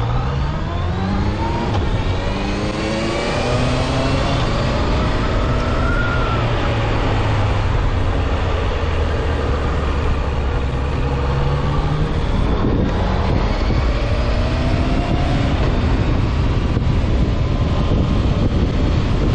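Honda CB650F's inline-four engine pulling hard under acceleration, its pitch climbing through the first few seconds and again about two-thirds of the way through, over a steady rush of wind noise.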